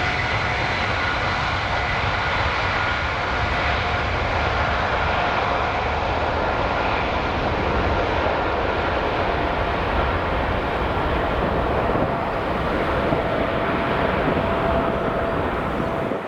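Boeing 777-300ER's twin GE90-115B turbofans at takeoff power: a loud, steady jet roar with a faint steady whine over it.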